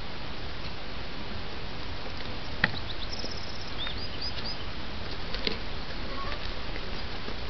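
A bird calling: a quick high trill followed by several short high chirps, over a steady outdoor hiss. A single sharp click comes a couple of seconds before the calls, and a softer knock follows them.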